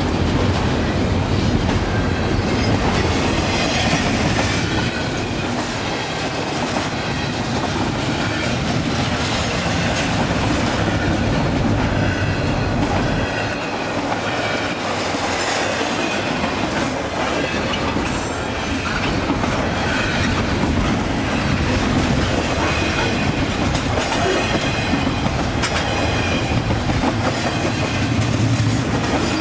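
Double-stack intermodal container cars of a long freight train rolling past close by: a steady rumble and clatter of steel wheels on the rails, with a few brief high-pitched wheel squeals.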